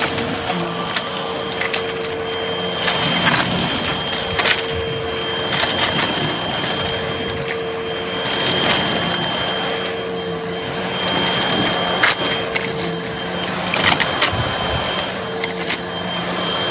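Hoover vacuum cleaner running with a steady hum and high whine, and frequent crunching and rattling clicks as light crunchy debris is sucked up.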